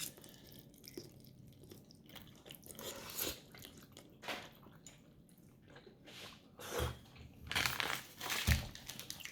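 A person eating instant noodles close to the microphone: intermittent chewing and small mouth noises, with a few soft low thumps near the end.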